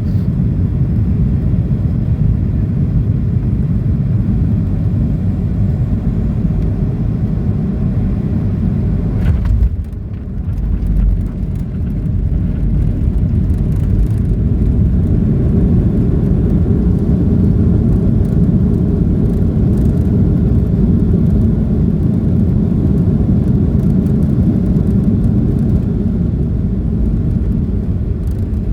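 Boeing 737-800 during landing, heard as a loud, steady low rumble of engines and airflow, with a brief dip in level about a third of the way through before the noise builds back up.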